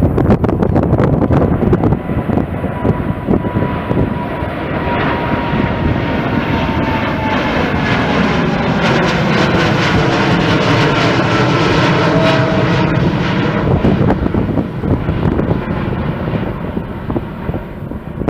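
Jet airliner passing close by, its engine noise loud and sustained, with a whine that falls slowly in pitch as it goes past. The sound eases off over the last few seconds.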